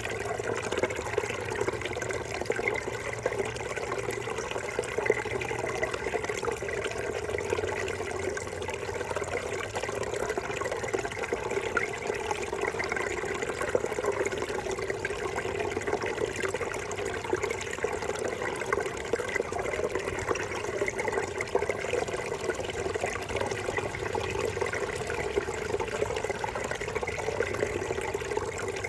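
Small brook babbling and splashing over rocks, a steady, unbroken rush of running water.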